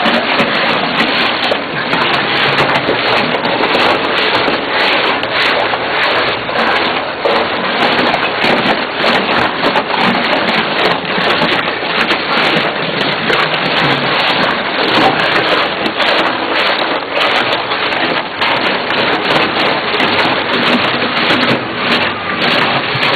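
Truck-mounted tire shredder chewing up tires: a loud, steady, dense crackling and grinding of rubber being torn apart.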